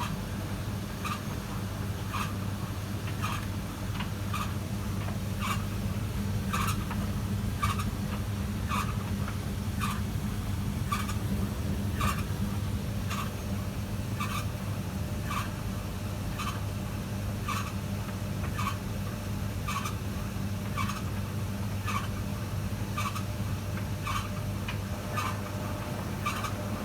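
Brand-new AEG T65170AV vented tumble dryer running with a steady hum, and a short, high squeak repeating about once a second as the drum turns.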